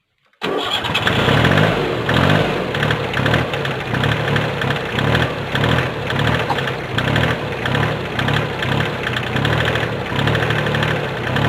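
Mitsubishi 4x4 mini tractor engine running loudly with a pulsing low beat, cutting in abruptly about half a second in.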